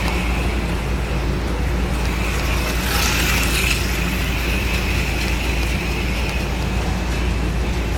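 HO-scale slot car motors and pickups running on a track, a steady high whine over a low electric hum, briefly louder about three seconds in.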